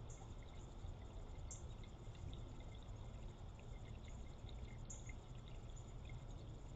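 Faint trickling and dripping water, with small scattered drip ticks over a steady low hiss.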